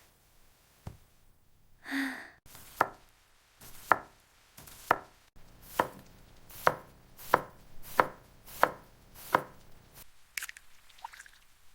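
Knife chopping on a cutting board in about ten steady, evenly spaced strokes, each with a short ring. A brief ringing tone sounds about two seconds in, just before the chopping starts.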